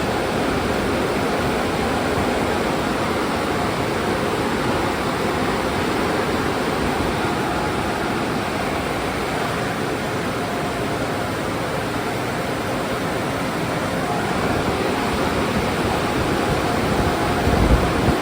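Car wash spraying water: a steady rushing hiss that holds level throughout, with a few low bumps near the end.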